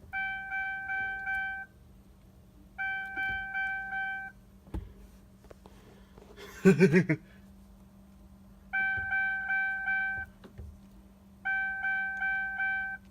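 Chevy Tahoe's dashboard warning chime sounding with the ignition on and the engine off: four runs of quick, evenly pitched beeps, each run about a second and a half long, over a faint steady hum. A short, louder sound comes about seven seconds in.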